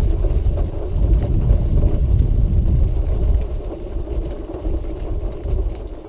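Quickie Q700 mid-wheel-drive power wheelchair driving along a path: a steady low rumble of its motors and wheels, slightly noisy, loudest in the first few seconds and easing toward the end.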